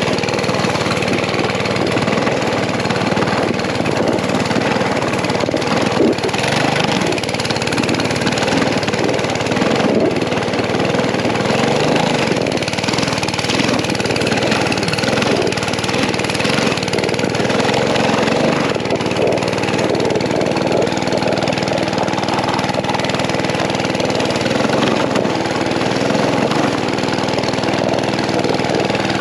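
Mini bike's small gas engine running while towing a sled, its note rising and falling, then settling to a steadier pitch for the last third.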